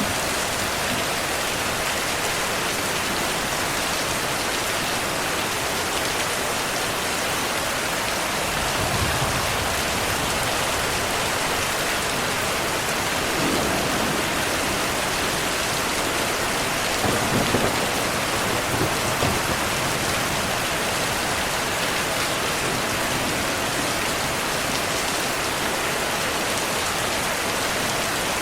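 Steady rain falling, with low rumbles of distant thunder three times: about a third of the way in, near the middle, and again a little past the middle.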